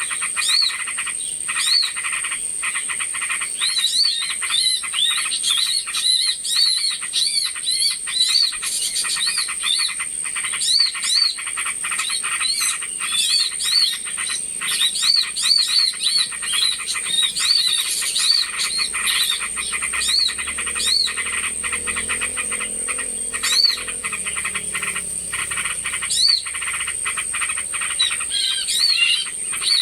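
Bird-lure recording of a dense, noisy chorus of small birds: rapid buzzy chattering and many short, repeated rising-and-falling chirps, over a steady high-pitched whine. It is played to call small birds in.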